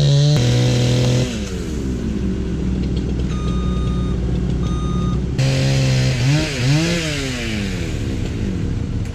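A two-stroke chainsaw engine running at high speed, then winding down toward idle. Later its throttle is blipped several times, the pitch rising and falling.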